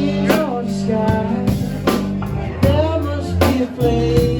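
Live band playing a song: a drum kit keeps a steady beat over bass and guitar, with a bending lead melody line on top.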